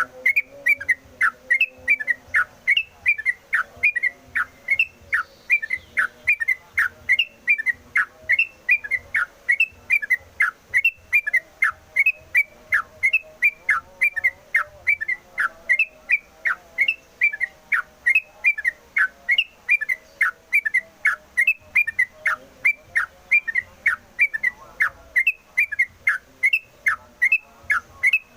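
Yellow-vented bulbul (trucukan) singing without pause: a fast, steady run of short whistled notes, each sliding downward, about three a second.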